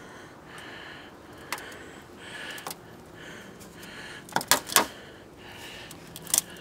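Irregular sharp taps or clicks, about half a dozen, with two close together about four and a half seconds in.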